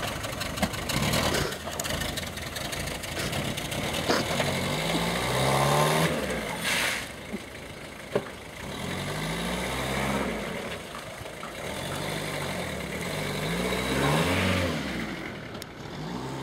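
Small car engine running and revving up in repeated rising sweeps as the car pulls away and drives off, with a brief hiss about seven seconds in and a sharp knock just after.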